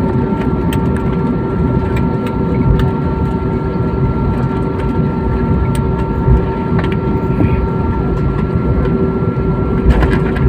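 Jet airliner's engines running, heard from inside the passenger cabin: a steady low rumble with several steady whining tones, one of which drops out about three-quarters of the way through.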